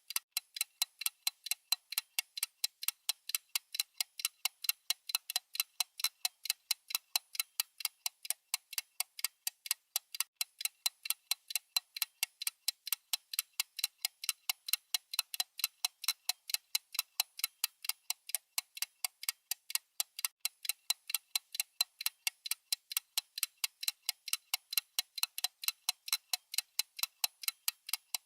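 Clock ticking sound effect: steady, evenly spaced crisp ticks with no change in pace.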